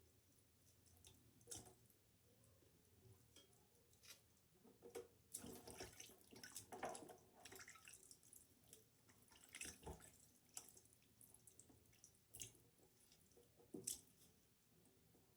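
Faint water splashing and dripping, busiest about a third of the way in, with scattered small clicks and knocks.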